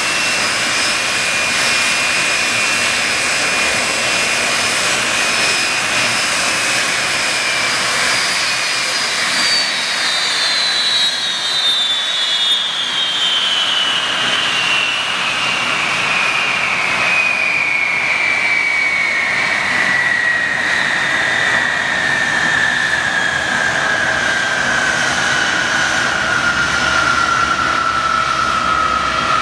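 Boeing 747-200F's Rolls-Royce RB211 turbofans running with a loud roar and a high whine. About nine seconds in, the whine begins to fall steadily in pitch: the engines spooling down.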